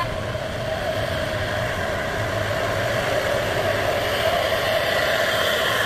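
Heavy truck diesel engine running steadily, with a low hum under even road and traffic noise.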